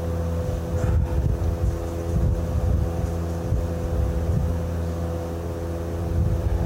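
Engine running at a steady idle, holding one even pitch throughout.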